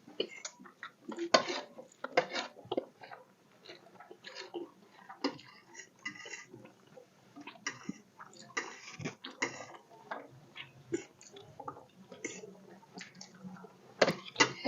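Eating at the table: irregular small clinks and scrapes of cutlery against plates, mixed with soft chewing and mouth noises.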